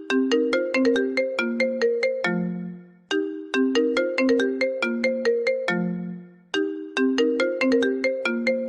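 Cute SMS message ringtone: a short melody of quick notes that ends on a lower held note, then fades. It repeats about every three and a half seconds, three times in all.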